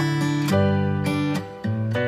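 Background music: acoustic guitar strumming chords, with a new chord struck about every half second to second.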